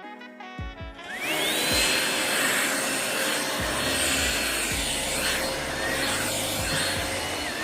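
Ryobi cordless vacuum switched on about a second in, its motor whining quickly up to speed, then running steadily with a high whine over the rush of its airflow.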